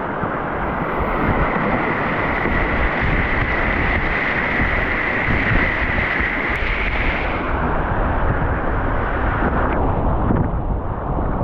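Loud rushing whitewater of a creek rapid, a steady roar of churning water with wind and spray buffeting the microphone; the brighter hiss falls away about seven or eight seconds in.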